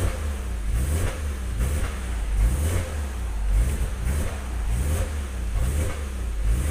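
BMW E46's engine revved in quick repeated throttle blips, about one a second, while parked. It is heard from inside the cabin through a newly fitted aftermarket silent muffler, with the stock manifold and catalytic converter kept.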